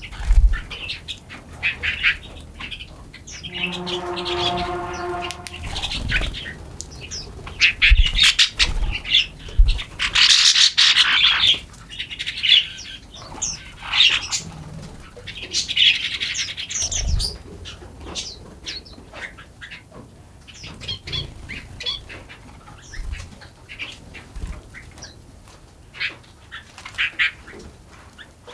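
Several forest songbirds chirping and singing in a busy chorus of short, high calls. About four seconds in, one harsher, nasal call lasts about two seconds. A few low thumps come and go underneath.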